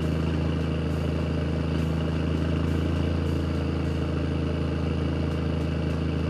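Engine of a heavy vehicle running at a steady idle, with no change in speed.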